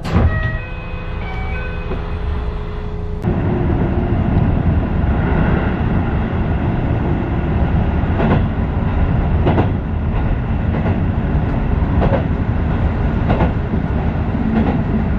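Electric commuter train heard from inside the car. For the first three seconds it is quieter, with a few short pitched tones. It then becomes a loud, steady running rumble with a sharp wheel clack over the rail joints about every 1.3 seconds.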